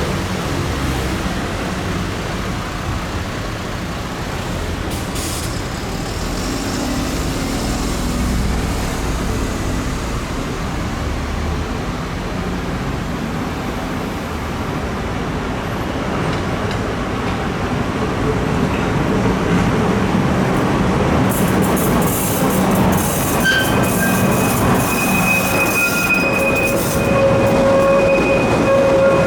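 Trieste–Opicina tram running on its rails with a steady rumble; in the last few seconds a high-pitched wheel squeal sets in over it.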